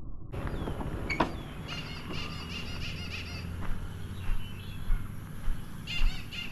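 Small birds chirping in quick repeated calls, in two spells. Outdoor wind rumble runs underneath, with a sharp click early on and a few dull thumps near the end.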